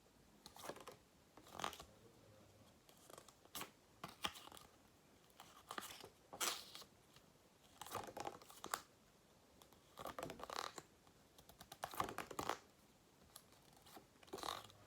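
Paper flashcards being handled and flipped one after another, making faint, short papery rustles about once every second or so.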